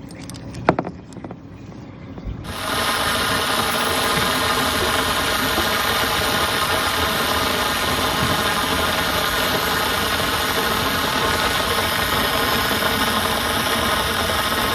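A motor starts running abruptly about two and a half seconds in and then runs at a steady, unchanging pitch with a loud hiss.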